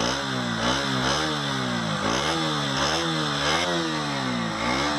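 KTM Duke 125's single-cylinder four-stroke engine being revved by blipping the throttle, its exhaust note rising and falling about five times.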